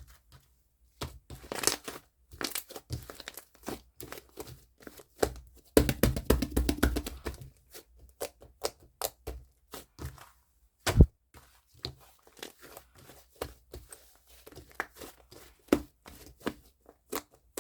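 Fluffy foam slime being squished and worked by hand, giving a run of irregular sticky pops, clicks and crackles.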